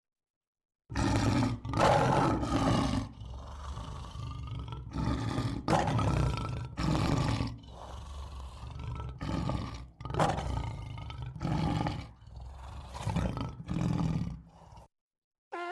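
A large animal roaring: a series of about a dozen deep calls, loud at first and then in shorter, weaker bouts, stopping about a second before the end.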